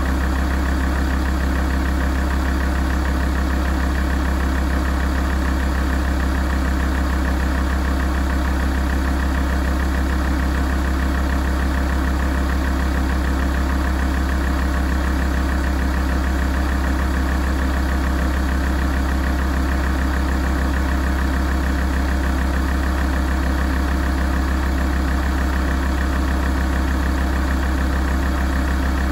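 Alfa Romeo 166 JTDm's 2.4-litre five-cylinder common-rail turbodiesel idling steadily while it warms up, a deep even hum with no change in speed.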